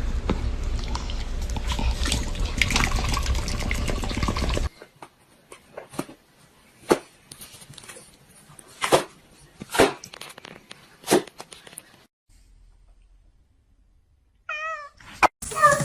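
Domestic cat meowing: a few short, separate meows about a second or two apart, after several seconds of steady noise, and a wavering call near the end.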